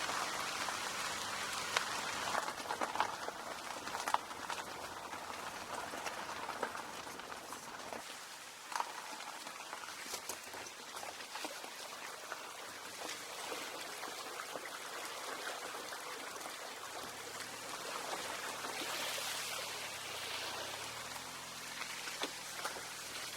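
A dense patter of many small ticks and crackles, like rain or gravel under tyres, with a faint low rumble underneath that drops away about eight seconds in.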